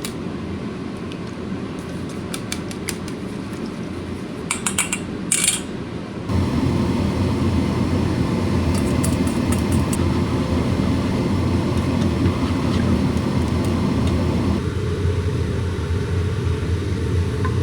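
Steady low rumbling noise, with a few sharp clicks about five seconds in. It turns abruptly louder about six seconds in and changes again near fifteen seconds.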